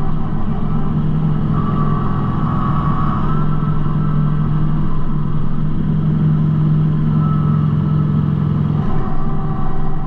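Kubota B2650 compact tractor's three-cylinder diesel engine running steadily, with a fainter higher whine that swells briefly a couple of seconds in.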